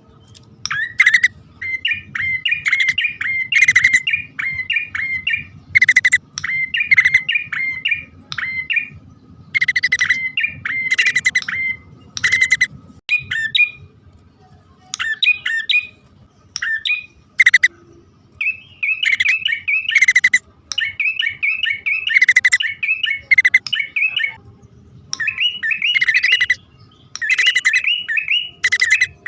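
Prinias (prenjak) calling, as in a male-and-female lure recording: repeated phrases of fast, sharp chattering notes, each about a second long, with short pauses between. A faint low hum runs underneath.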